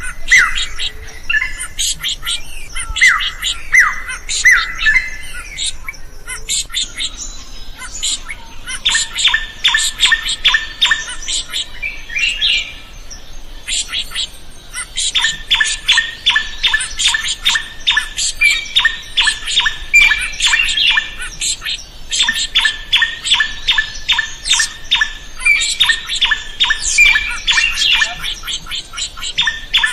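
Drongo singing loudly and without letup: squawky, sliding calls at first, then long runs of rapid, evenly repeated short notes, broken by a brief pause a little under halfway through.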